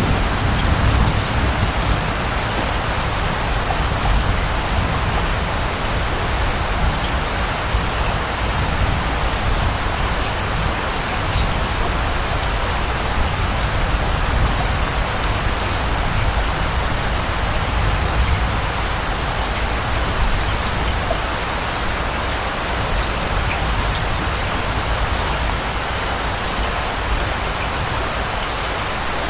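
Steady rain falling, an even hiss with a low rumble of distant thunder dying away in the first second or so.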